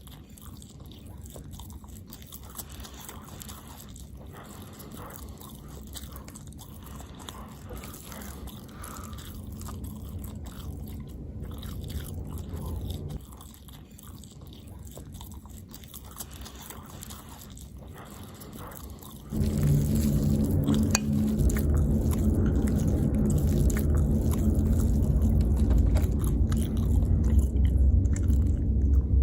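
Close-miked chewing and biting of food, getting much louder about two-thirds of the way through.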